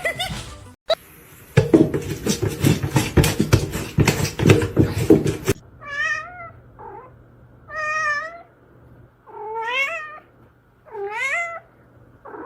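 A loud run of rapid clicks and knocks for about four seconds, then a cat meowing four times. Each meow is drawn out for about a second and bends up and down in pitch.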